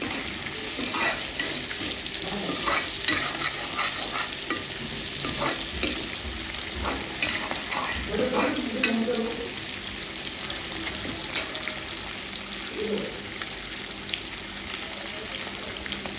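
Eating sounds: irregular clicks, scrapes and crackles of food and utensils being handled and chewed, busiest in the first half.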